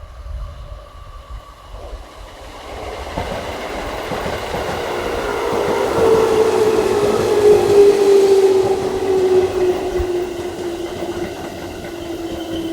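Electric train running past the platform: a rumble that builds over several seconds, with a whine that falls steadily in pitch as the train goes by.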